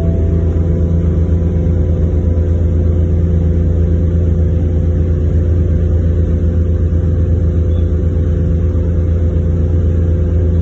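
Boat engine running with a steady, unchanging low drone.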